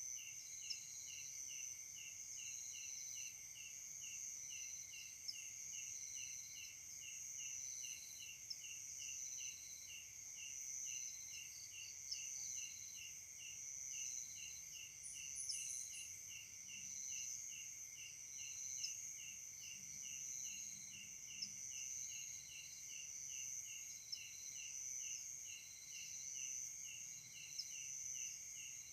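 Night-time insect chorus: several insects calling at once, with steady high-pitched trills, a rhythmic chirp about twice a second, and another trill that pulses on and off about once a second.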